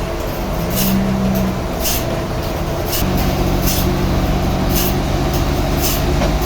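Sawmill machinery running loudly, a steady motor drone whose pitch shifts about a second in and again about three seconds in, with a short hiss about once a second.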